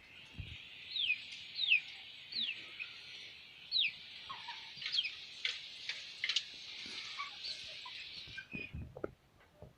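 Chicks peeping, many at once, with a few loud peeps that slide down in pitch. The chatter stops about eight and a half seconds in, and a few low knocks follow.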